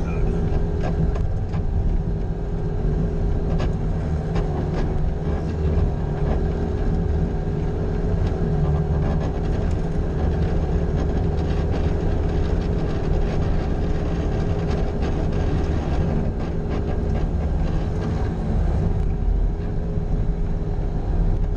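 Bobcat skid-steer loader's diesel engine running steadily under work, with a steady whining tone over the engine drone and scattered light clicks and knocks.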